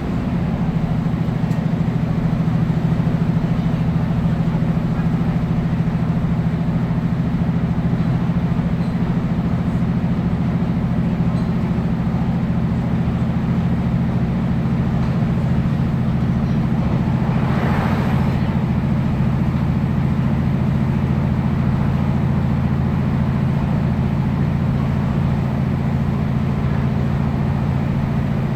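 Class 156 Sprinter diesel multiple unit's Cummins six-cylinder diesel engine running steadily under power, a deep drone at an even pitch heard from inside the carriage. A brief rushing noise passes about two-thirds of the way through.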